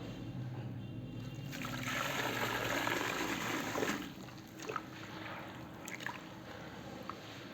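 Liquid being poured while cement and concrete powder is mixed into a paste: a splashing trickle for about two and a half seconds, then a few small drips and ticks.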